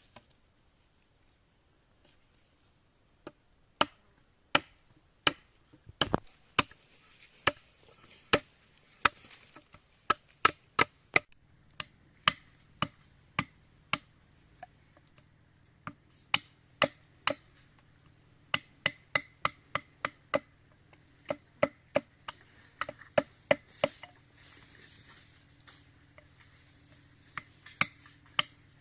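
Wood being chopped with a blade: a long series of sharp, separate knocks at about one to two a second, with a pause about three-quarters of the way through.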